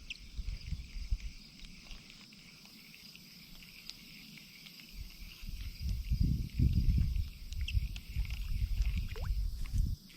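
Uneven low rumble on the microphone, like wind or handling noise, loudest from about six to seven seconds in, over a steady faint high hiss.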